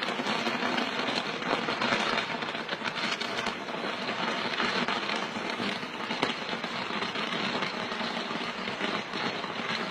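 Dense, steady crackling of a burning fireworks ladder, with countless small pops running together into a continuous rattle.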